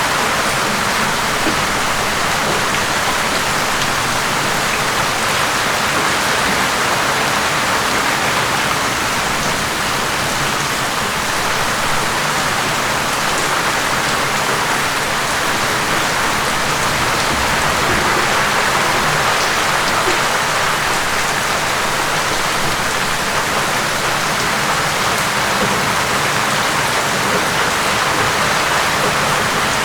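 Steady, heavy rain falling: an even, unbroken hiss with no pauses or changes.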